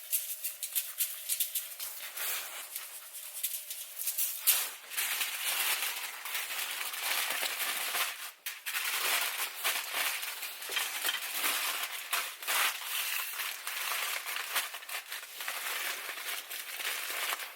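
Aluminum foil crinkling and rustling as it is folded and wrapped around a piece of salmon.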